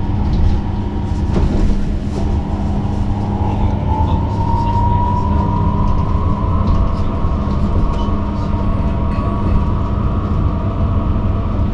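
Electric bus in motion, heard from inside: a steady low rumble of the ride with a thin electric-drive whine that rises a little in pitch about four seconds in, as the bus speeds up.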